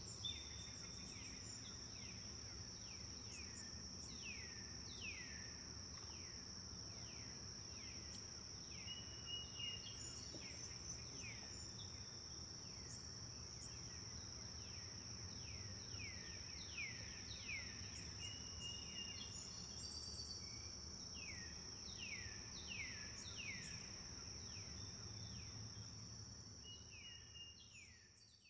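Forest birds chirping: rapid, repeated short calls that sweep down in pitch, with a few brief whistled notes, over a continuous high-pitched steady drone. The whole ambience fades out near the end.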